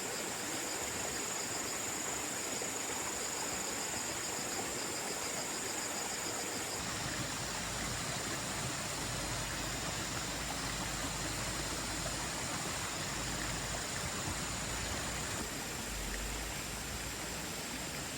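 Steady hiss of water with insects trilling high above it; from about seven seconds a low rumble joins in.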